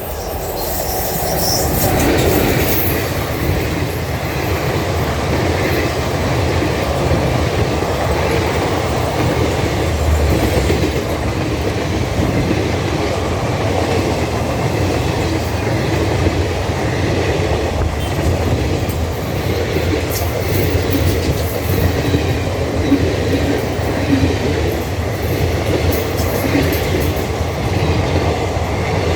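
Express passenger train hauled by a WAP-4 electric locomotive passing at speed. The steady rush of coach wheels on the rails, with a clattering over rail joints, builds over the first two seconds and then holds.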